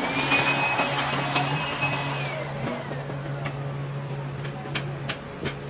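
A small electric power-tool motor whines at a steady high pitch, then winds down, falling in pitch as it coasts to a stop after about two seconds. Under it runs a steady low hum, with scattered clicks and taps.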